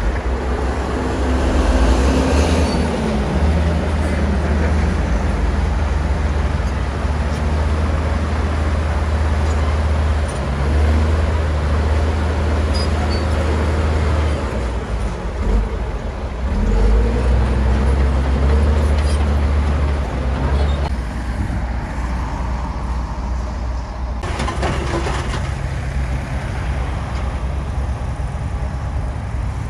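Bulldozer's diesel engine working under load, its low drone swelling and easing in stretches as the machine pushes, then settling lower about two-thirds of the way in.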